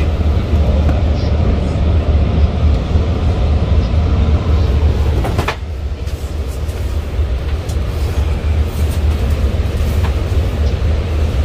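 Steady low rumble and rush of a Long Island Rail Road commuter train in motion, heard from inside the passenger car, with a sharp click about five seconds in, after which the rumble is a little quieter.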